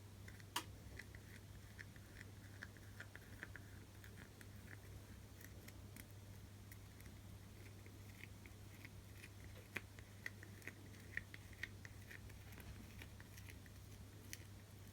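Faint, irregular small clicks and crackles of fingers rubbing and peeling leftover adhesive off a phone LCD, busiest near the end, over a steady low hum.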